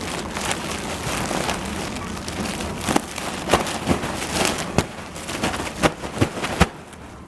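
Crinkling, crackling rustle of a balloon being handled and rubbed, with many sharp clicks. It stops abruptly near the end.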